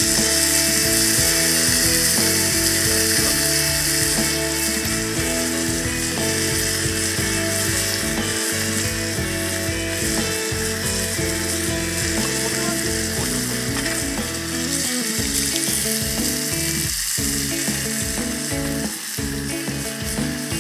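Meat frying in a skillet: a steady, loud sizzle.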